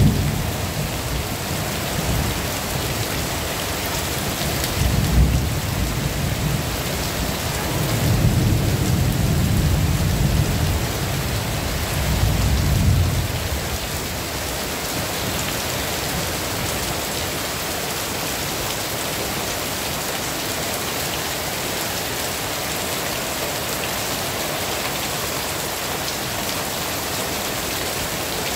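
Heavy rain falling steadily. Several deep low rumbles swell and fade during the first half.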